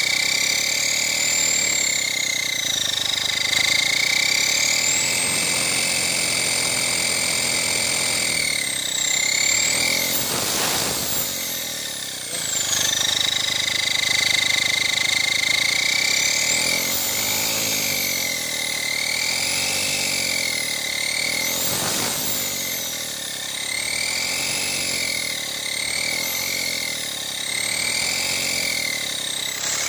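Car turbocharger whining, its high pitch rising and falling as the engine is revved. It holds steady for a while early on, climbs sharply twice (about ten seconds in and again past twenty), then comes in a run of short rev blips near the end.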